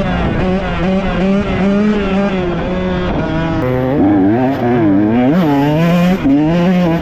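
Dirt bike engine running under constantly changing throttle, its pitch rising and falling, with several quick revs about four to six seconds in.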